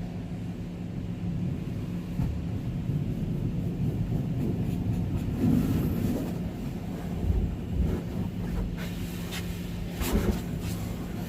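Steady low hum and rumble inside a semi-truck cab, with the cab's heater fan running, as the truck wash crew rinses the trailer. A few low thumps come past the middle, and knocks and a brief rushing sound come near the end.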